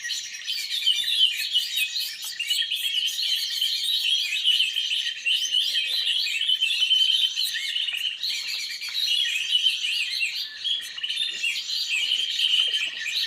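Dense, continuous chirping and twittering of many small birds, the calls overlapping without a break.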